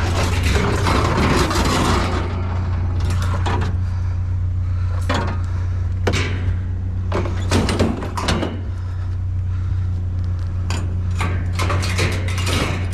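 Household items being handled and loaded: a series of knocks, clatters and rattles, several in quick succession around two thirds of the way through, over a steady low hum.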